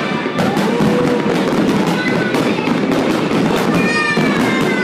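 Big aerial fireworks display: a dense, unbroken barrage of shell bursts and crackling, with a few thin whistling tones here and there.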